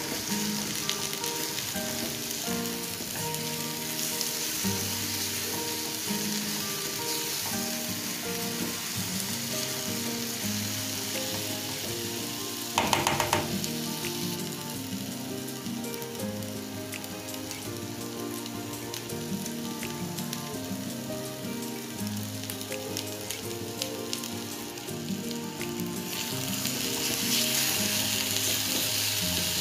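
Minced soya and sliced onions sizzling as they fry in oil in an aluminium pan, stirred with a silicone spatula, the sizzle louder near the end. A short, loud scrape about halfway through, with soft background music playing underneath.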